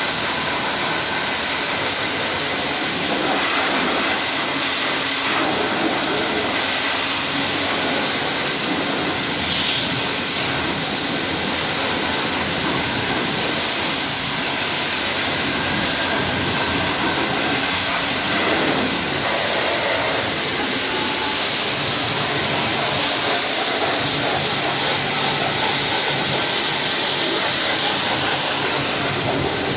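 High-pressure washer spraying water in a steady hiss, with the spray swelling and easing a little as the jet moves.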